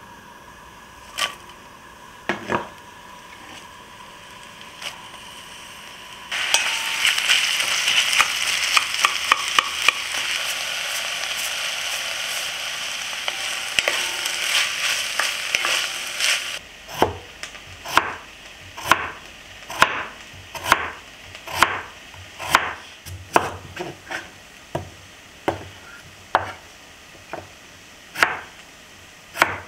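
Sliced onions sizzling in hot oil in an enamelled cast-iron pot, starting suddenly about six seconds in and stirred with a wooden spoon for about ten seconds. A kitchen knife then chops steadily through potatoes on a wooden cutting board, about one or two knocks a second.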